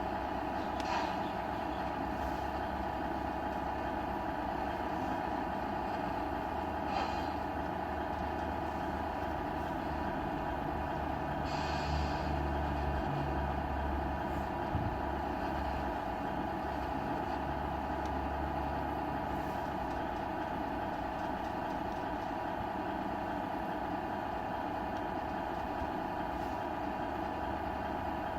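Simulated truck engine idling steadily from a Tamiya RC truck's electronic sound unit, with three short air-brake hisses about one, seven and twelve seconds in. The engine note swells for a few seconds in the middle.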